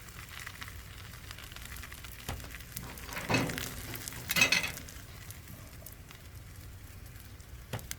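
Flour tortilla sizzling gently in a hot buttered pan, a steady faint hiss. Two brief, louder handling noises come about three and four and a half seconds in.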